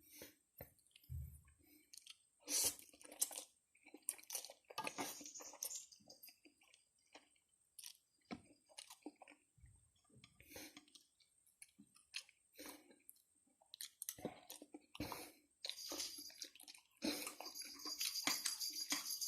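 A person chewing and eating food close to the microphone: wet, irregular mouth noises and soft crunches, mukbang-style. The sound becomes a denser, continuous run near the end.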